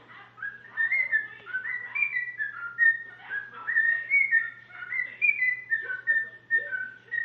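Cockatiel whistling a learned tune: a string of clear notes that step up and down in pitch, starting about a second in.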